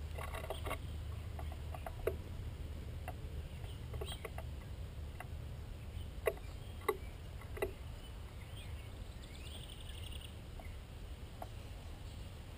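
Scattered sharp taps and clicks of birds pecking and shuffling on a bird feeder, the three loudest about six to eight seconds in, over a steady low rumble.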